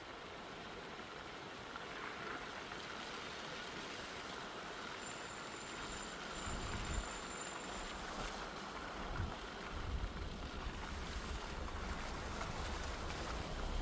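A steady hiss, with wind buffeting the microphone from about six seconds in.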